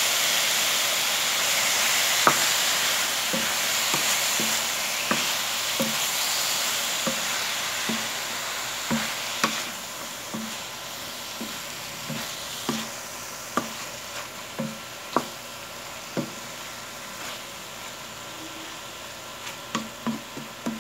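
Chicken pieces and garlic sizzling in oil in a nonstick pan, with a wooden spatula tapping and scraping against the pan as it stirs. The sizzle slowly dies down while the irregular spatula taps go on.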